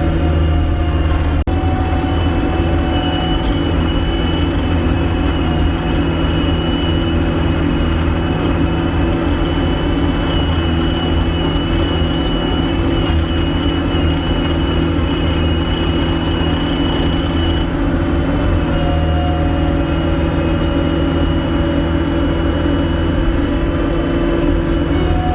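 Gehl 5625SX skid steer's diesel engine running at a steady speed, with a thin high whine held over it.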